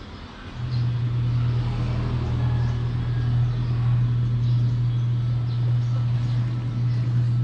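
A steady low mechanical hum that starts about half a second in, holds an even pitch, and cuts off suddenly at the end.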